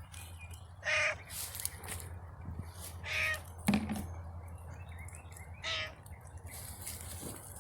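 A crow cawing three times, short harsh calls about two and a half seconds apart, with a single knock just after the second caw.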